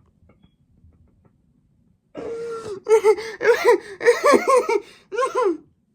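A man laughing out loud, starting about two seconds in with a drawn-out cry and breaking into rapid bursts of laughter.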